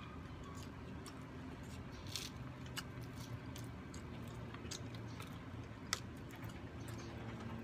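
A person chewing food, with scattered short crisp clicks and crunches; the sharpest comes about six seconds in.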